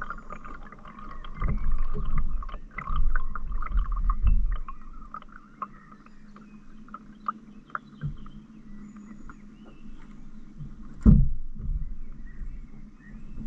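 Canoe paddling on a river: a run of small splashes and drips from the paddle in the water, with one sharp knock about eleven seconds in.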